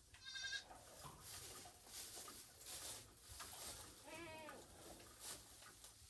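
Goats bleating faintly: a short, high, wavering bleat near the start and another bleat about four seconds in, with soft scattered clicks and rustles between.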